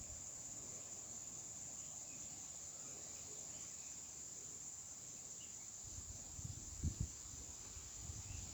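Crickets chirping in a steady high-pitched evening chorus, with a few faint short chirps in it. A couple of low thumps come near the end.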